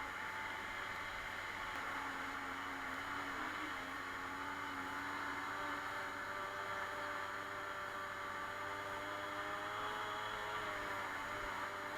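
A Suzuki Colleda moped's two-stroke engine running under way. Its note holds fairly steady, rises a little past the middle and eases off near the end.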